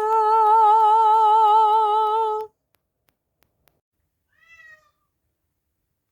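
A voice holds one sung note with a slow vibrato, which cuts off about two and a half seconds in. After a pause, a cat gives a single short meow.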